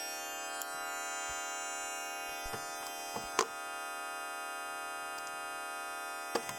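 Multi-tone test signal playing through loudspeakers: many steady pure tones sounding at once, from the low-mids to very high, as one constant chord-like buzz. A few light knocks come around the middle and again near the end.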